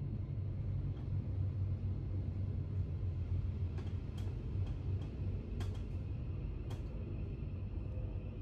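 Inside a Thameslink Class 700 electric train on the move: a steady low rumble of running noise, with a handful of sharp clicks about halfway through.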